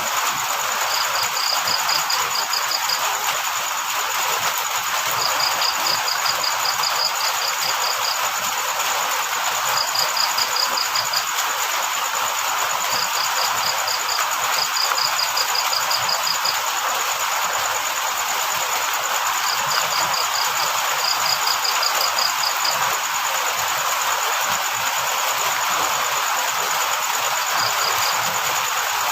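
Steady hiss of rain with a cricket chirping in short bursts of rapid pulses, a second or two long and recurring every few seconds. A thin, steady high tone runs underneath.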